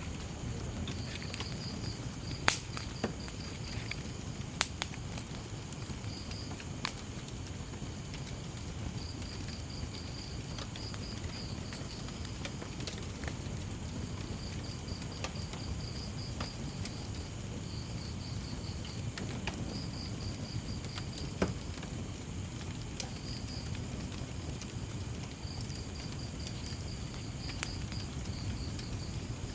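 Wood fire crackling with a few sharp pops, the loudest about two and a half seconds in and another near twenty-one seconds, over a steady low rumble. A cricket chirps throughout in short, evenly pulsed trills.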